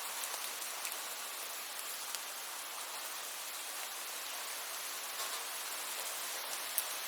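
Steady rain hissing, with scattered individual drops ticking sharply, two of them louder near the end.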